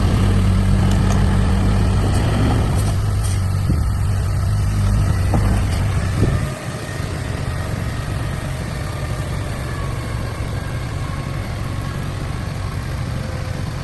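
Heavy diesel engine of a working truck or bulldozer running hard with a steady low drone. About six and a half seconds in it drops off suddenly to a quieter, steady run.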